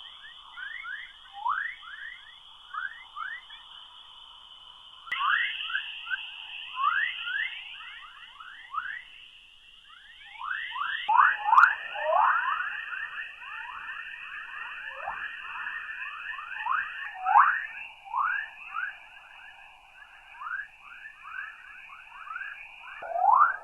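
Space recording of Earth's radio emissions made audible: a dense stream of quick rising whistle-like chirps over a steady hiss-like band, typical of the electromagnetic 'chorus' waves in Earth's magnetosphere. The pattern shifts abruptly several times, as if separate stretches are joined.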